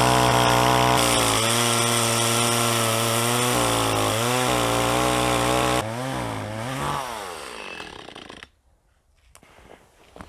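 Two-stroke chainsaw sawing through a fallen log at high revs, its engine speed dipping and picking up several times under load. About six seconds in, the saw leaves the cut. The engine then winds down and stops about two seconds later.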